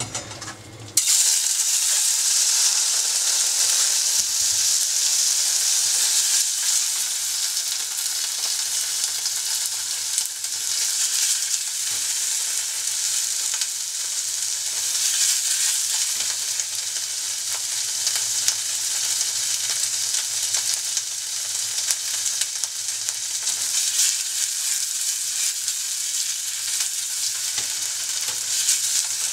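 Cubes of konjac sizzling in a hot stainless-steel saucepan. The hiss starts suddenly about a second in as they hit the pan and then runs on steadily as their water steams off.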